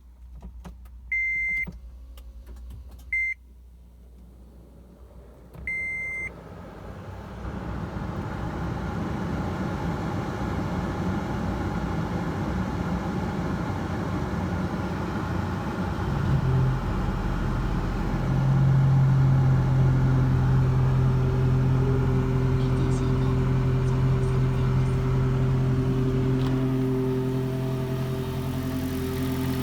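Toyota Prius switching on: three short, high electronic beeps in the first six seconds, then a steady running noise that builds. About sixteen seconds in, the petrol engine starts by itself and settles into a steady idle with a low hum.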